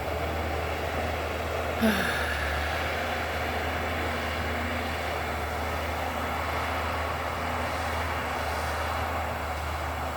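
Steady distant rumble of the bulldozer engine, mixed with wind on the phone's microphone. A brief, sharper sound stands out about two seconds in.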